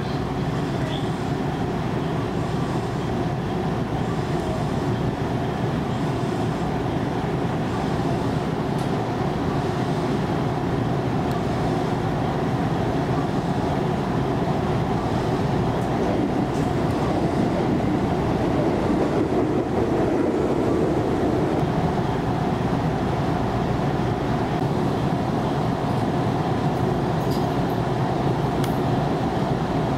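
Steady running rumble of a train heard from inside the car. It grows louder for a few seconds about halfway as an oncoming train passes close by on the adjacent track.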